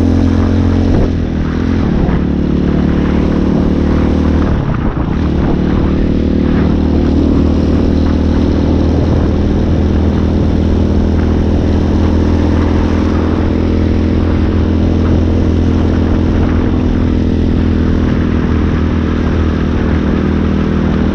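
Hawk 250 dirt bike's single-cylinder engine running steadily under way, its note dipping briefly about a second in and again around five seconds, as when easing off the throttle or shifting.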